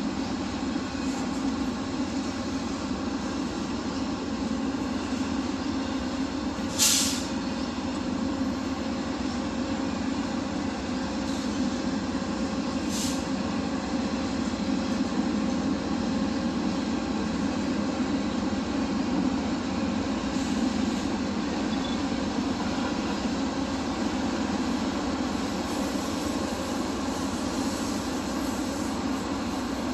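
CPKC train's cars rolling past with a steady rumble of wheels on rail. Two brief sharp high-pitched noises come about six seconds apart.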